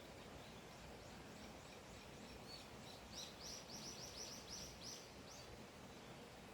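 A bird singing a quick run of about nine high, downward-slurred notes, a little over three seconds in, over faint steady outdoor hiss.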